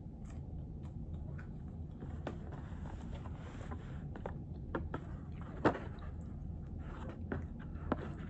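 A person eating: chewing with scattered small clicks and taps, the sharpest about halfway through and again near the end, over a steady low hum.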